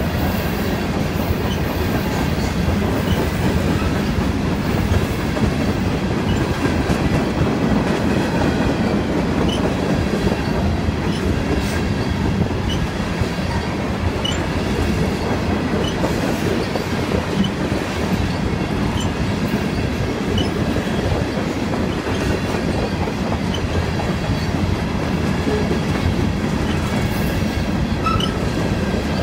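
Covered hopper cars of a long freight train rolling past: a steady rumble of steel wheels on rail that does not change.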